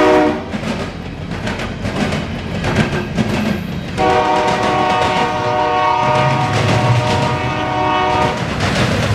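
Diesel locomotive air horn: a short blast ending just after the start, then one long blast of several steady tones from about four seconds in until near the end, over the rumble and clatter of the passing intermodal train.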